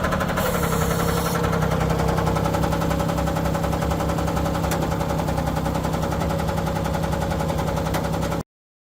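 Case IH 1120 garden tractor's 19 HP diesel engine running steadily at idle; the sound cuts off suddenly near the end.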